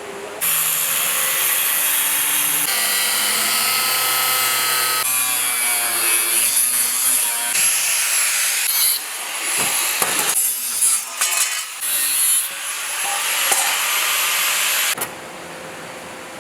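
Power saw cutting through material, running steadily and changing abruptly every few seconds, then stopping about a second before the end.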